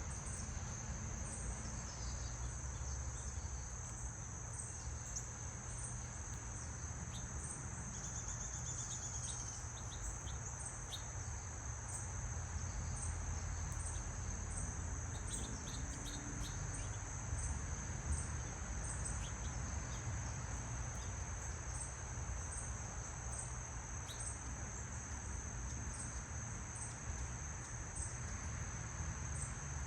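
Crickets trilling steadily in one high continuous note, with a second insect calling in short regular pulses about once a second. A few faint bird chirps come through about eight seconds in and again around the middle, over a low steady rumble.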